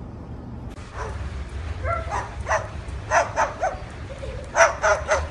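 Short, high animal yelps in quick runs of three or four, over a steady low hum.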